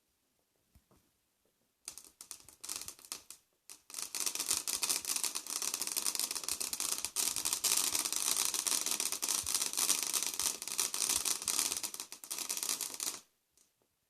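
Firework crackling: a dense, rapid crackle that starts in short spurts about two seconds in, runs continuously from about four seconds, and stops about a second before the end.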